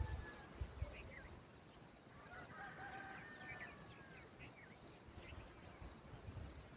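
Faint bird calls: short chirps throughout, and a longer honking call about two and a half seconds in. A few low thumps near the start.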